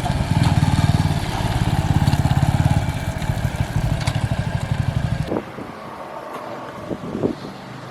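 Motorcycle engine running close by with a fast, even exhaust pulse, which drops away abruptly about five seconds in, leaving a much quieter background.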